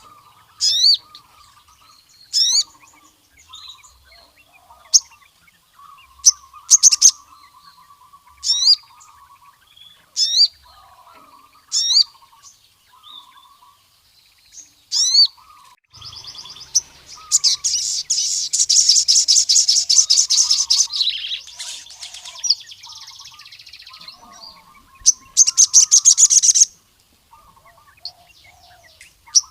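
Male sogon (sunbird) singing. Sharp, high downward-swept notes come every second or two over soft chattering, then break into long, very fast trills about halfway through and again near the end.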